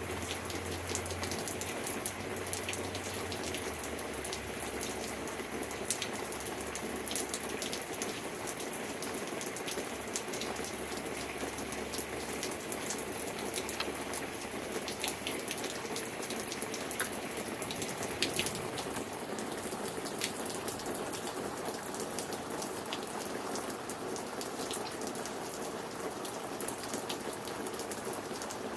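Steady rain falling during a storm, with many sharp ticks of individual drops hitting close by over the continuous hiss.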